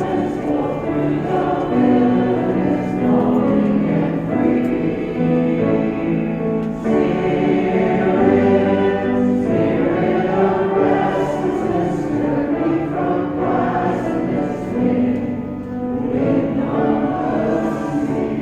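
A group of voices singing a hymn together in held notes, with musical accompaniment.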